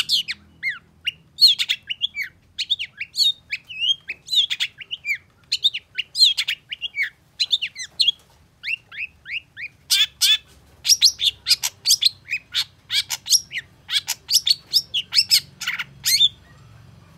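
Long-tailed shrike singing: a quick string of short chirps and falling whistled notes, turning to harsher, faster chattering notes about ten seconds in, then stopping about a second before the end.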